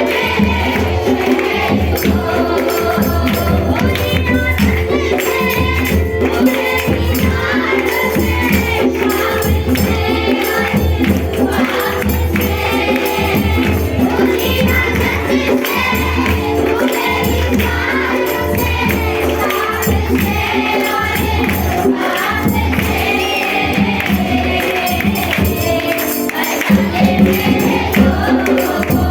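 A group of voices singing a Christian worship song in unison, accompanied by a steadily jingling tambourine and a repeating percussion beat.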